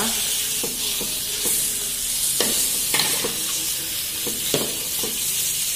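Spotted dove meat frying in spice paste in a metal wok, sizzling steadily, while a metal ladle-spatula stirs it and scrapes and clicks against the pan every second or so.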